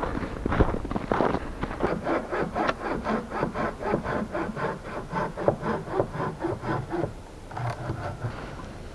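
Hand saw cutting wood in quick back-and-forth strokes, about four rasping strokes a second, stopping about seven seconds in.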